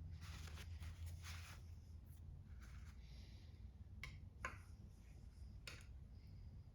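Faint scraping and three sharp clicks of tools and metal engine parts being handled during small-engine disassembly, over a steady low hum.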